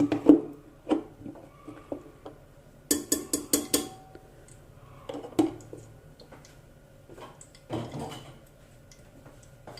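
Metal kitchenware clinking and knocking at the stove, with a quick rattle of four or five sharp metal strikes about three seconds in and a few single knocks later.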